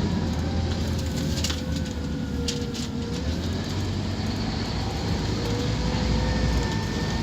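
Scania K230UB Omnilink bus's diesel engine running steadily under way, with a wavering whine over the low rumble and a few brief rattles.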